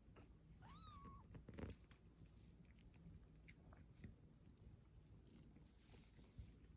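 A kitten gives one short, faint mew about a second in, among small clicks and rustles.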